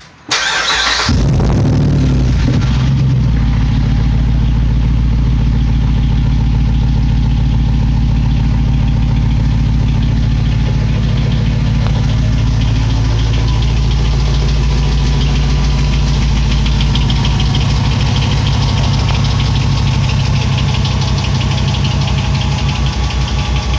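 A 2006 Jeep Grand Cherokee's 5.7 Hemi V8 is cranked by its starter, catches about a second in, and then idles steadily through a Magnaflow straight-through muffler with the resonator deleted.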